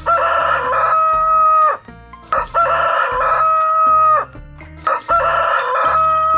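A rooster crowing cock-a-doodle-doo three times in a row, each crow loud and ending in a long held note.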